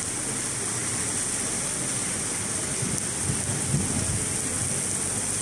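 Heavy downpour falling steadily on a street, with a couple of brief low rumbles a little over three seconds in.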